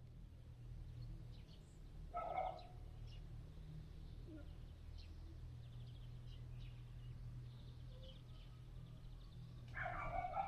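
Two short bird calls, one about two seconds in and one near the end, over a faint low hum, with small birds chirping faintly in between.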